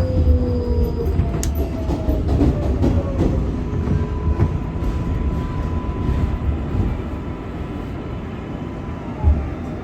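R188 subway car running on the 7 line, heard from inside: low rumble and wheel noise that ease off, under a steady electric whine that drops in pitch near the end as the train slows.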